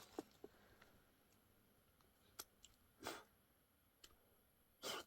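Near silence broken by a few faint, scattered clicks and short rustles.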